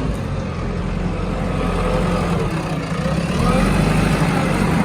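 Heavy diesel engine of construction and farm machinery running steadily, with a fainter whine that rises and falls in pitch.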